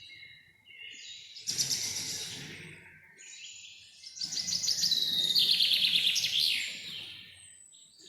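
Songbird singing two loud, fast trilled songs of rapid repeated notes, a short one about a second and a half in and a longer one from about four seconds to seven, with fainter bird chirps between.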